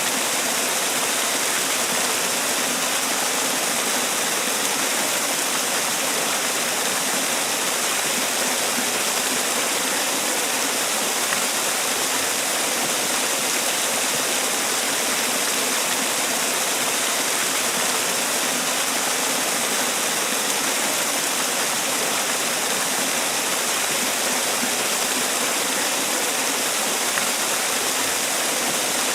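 Man-made waterfall: water falling and splashing in a steady, unbroken rush, hissy and bright, with no change in level.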